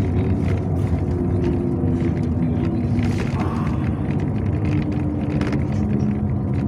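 Yutong ZK6118HGA city bus driving, heard from inside the passenger cabin: a steady rumble of engine and road noise, with the engine hum shifting in pitch a few times and light rattles.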